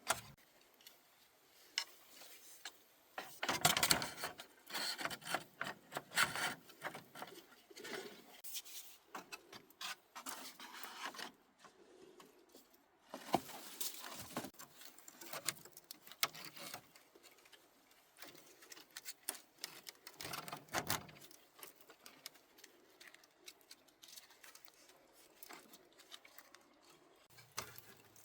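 Irregular rustling, scraping and light knocks of hand work with natural building materials, with no steady machine sound. The noises come in uneven clusters, busiest in the first half.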